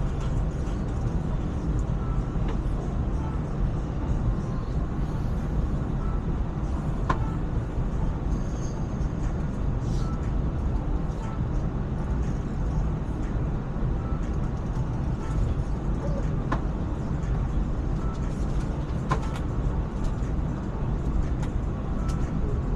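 ETS electric train running steadily, a constant low rumble heard from inside the carriage, with a few faint clicks now and then.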